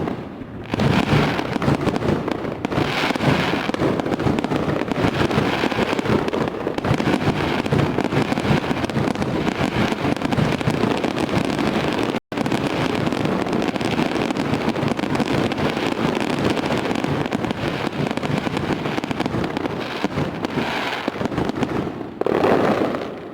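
Fireworks display: a dense, continuous barrage of bangs and crackling. It cuts out for an instant just after halfway, and near the end comes one louder burst that then fades.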